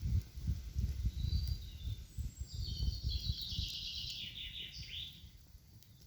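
A songbird singing one rapid, trilled phrase of high notes from about a second in until about five seconds, falling in pitch at its end, over a low rumble that fades away during the song.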